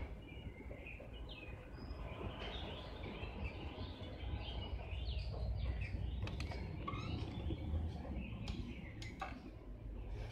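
Small birds chirping, many short calls, over a steady low rumble, with a few faint clicks.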